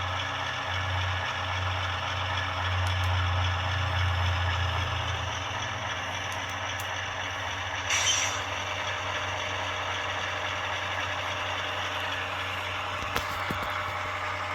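Onboard sound of an HO-scale ES44AC diesel model, a GE diesel engine running steadily at low throttle through the model's small speaker as it creeps along at speed step 1. There is a short hiss about eight seconds in.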